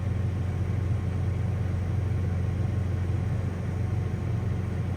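A vehicle engine running steadily, a low even hum with no change in speed.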